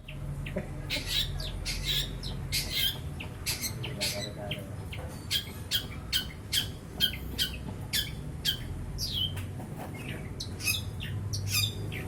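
Long-tailed shrike (cendet) singing in a rapid run of short, harsh notes, about two to three a second, some sliding down in pitch. A steady low hum lies underneath.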